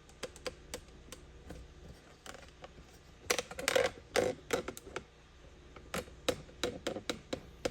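A run of irregular light clicks and knocks, busiest and loudest a little past the middle.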